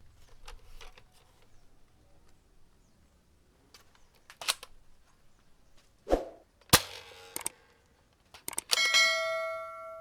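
Plastic clicks and snaps from a toy Nerf dart blaster being handled, with two sharp snaps about six and seven seconds in. Near the end a metallic clang rings on for over a second as it dies away.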